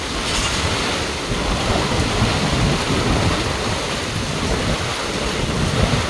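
Heavy rain pouring steadily in a thunderstorm, with wind gusting against the microphone.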